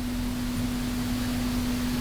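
Hot-staple plastic welder humming steadily as it heats a staple, a single even buzzing tone over a soft hiss.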